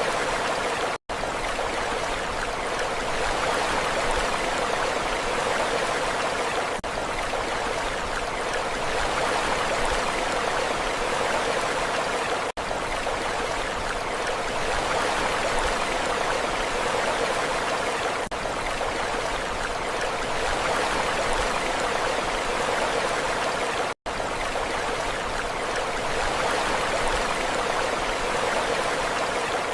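Steady rushing water, an even hiss without the rise and fall of waves, cutting out for an instant twice, about a second in and again past the twenty-second mark.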